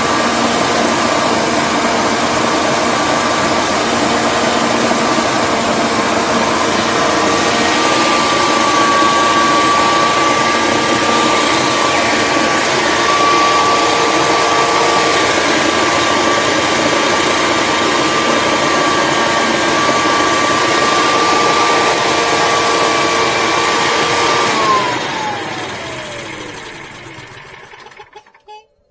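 Generac Guardian 4456 home standby generator running steadily with a high whine, then shutting off near the end: its pitch falls and it fades as it spins down to a stop.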